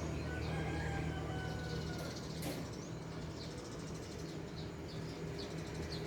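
Outdoor ambience of a steady low hum with scattered faint bird chirps and short calls, and a single brief tick about two and a half seconds in.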